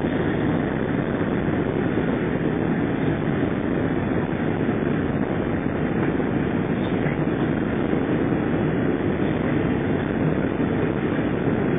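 Steady rushing noise inside an Airbus A300 airliner's cabin during the approach to landing: engine and airflow noise at an even level.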